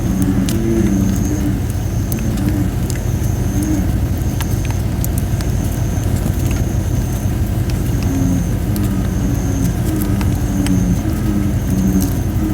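Campfire of thin, not fully dried red robin (Photinia) wood crackling with scattered sharp pops over a steady low rumble. Bullfrogs call in bursts of low croaks, sparse early on and more frequent in the second half.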